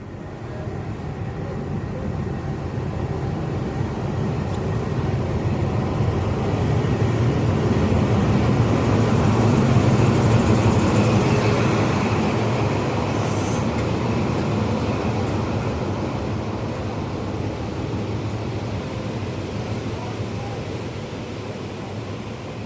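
A train moving through the station, its engine and running noise building to a peak about ten seconds in and then slowly fading as it draws away.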